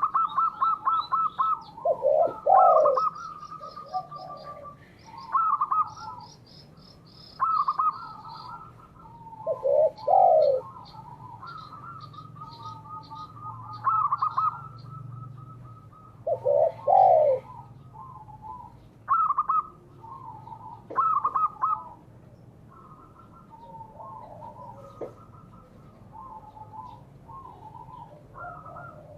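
Spotted doves and zebra doves cooing over and over in short repeated phrases, with a louder, lower falling coo about every seven seconds. Faint, quick, high chirps of a smaller bird sound between the coos.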